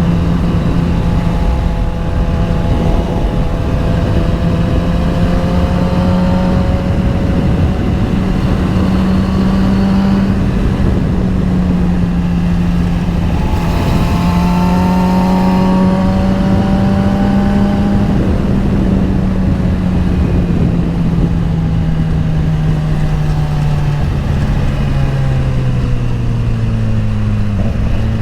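Sport motorcycle engine running at a steady cruise on the road, its note rising a little and then easing down slowly over the last third, with wind rush on the microphone.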